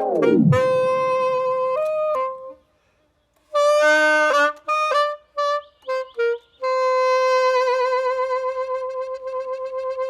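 A saxophone playing alone: a few sustained notes, a brief pause, a run of short notes, then one long held note with a vibrato that grows wider. Right at the start, the music before it drops away with a sweep down in pitch.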